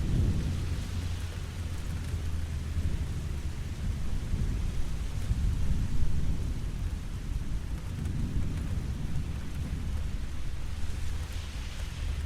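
Steady rain falling, with a deep continuous rumble underneath.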